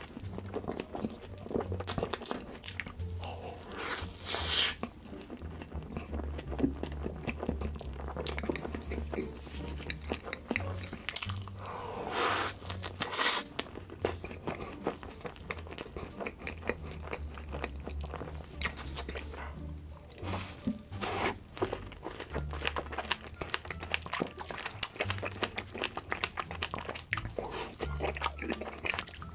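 Close-miked mukbang eating: wet chewing, lip smacks and crunching bites as large mouthfuls of strawberry-topped layered pancake cake and strawberry cream cake are eaten. Background music plays underneath.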